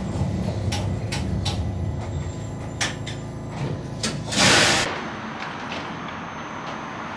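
Narrow-gauge train standing at a platform with its doors opening: a low running hum and a few sharp clicks, then a short loud hiss of air about four and a half seconds in. The hum stops as the hiss ends.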